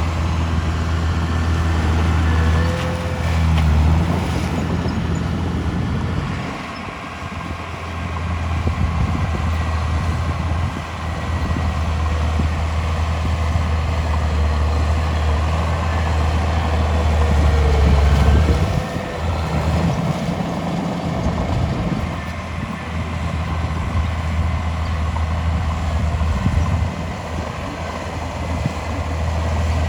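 Heavy diesel engine of earthmoving machinery running under load, a loud low drone that dips and comes back twice, about seven and about twenty seconds in.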